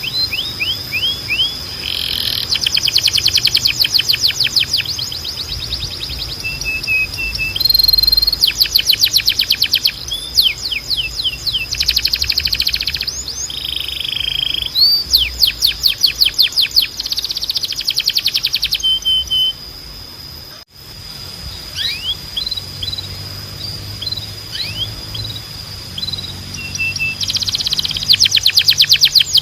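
Timbrado canary singing: fast trills of rapidly repeated notes in bursts of a second or two, with single downward-sweeping notes between them and a brief break about two-thirds of the way through.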